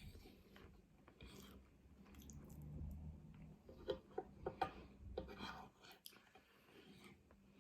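Faint close-miked chewing: a person eating, with a run of sharp mouth clicks and smacks about four to five seconds in.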